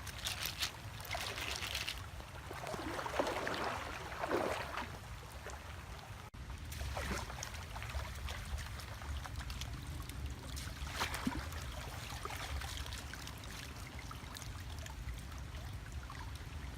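Water splashing and trickling in irregular splashes, over a steady low rumble, with a brief cut about six seconds in.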